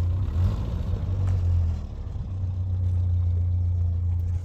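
Vehicle engine running with a steady low rumble, briefly dipping about two seconds in.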